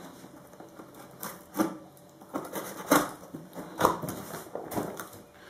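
Scissors snipping through the plastic wrapping on a cardboard box, with irregular sharp clicks and crinkling of the plastic.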